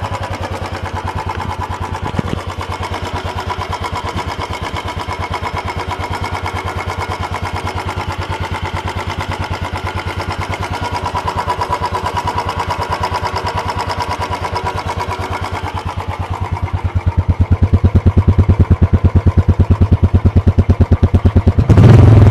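Stock Royal Enfield single-cylinder engine and factory silencer idling with an even, rapid exhaust beat, nearly new and unmodified. It grows louder about sixteen seconds in, and the throttle is blipped briefly near the end.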